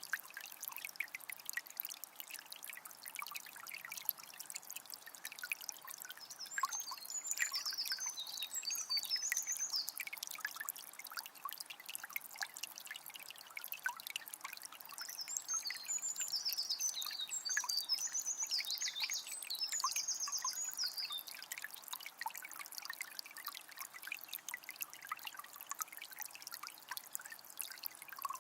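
Water from a small spring trickling and splashing in a steady, crackly patter. A bird sings twice over it in rapid strings of high notes, first a few seconds long about a quarter of the way in, then a longer spell just past the middle.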